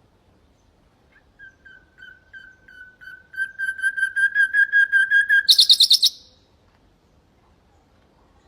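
Nightingale singing one phrase: a run of repeated whistled notes that swells from soft to loud over about four seconds, ending in a short, fast, high trill.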